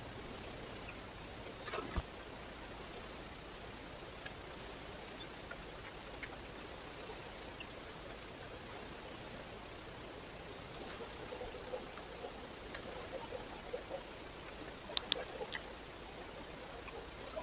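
Steady hiss from a trail camera's microphone, with a few faint scattered sharp ticks and a quick run of four loud ticks about fifteen seconds in.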